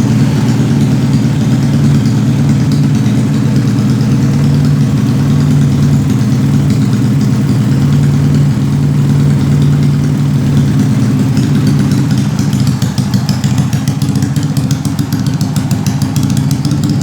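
Honda C70 motorcycle running a Honda Karisma single-cylinder four-stroke engine bored out from 125 cc to 155 cc, with no stroke-up, idling steadily. About three quarters of the way in, the sound turns choppier and picks up a fast pulsing.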